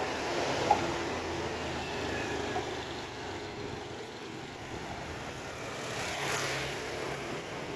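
Street ambience of motor traffic rumbling steadily, with a sharp click about a second in and a vehicle swelling past near the end.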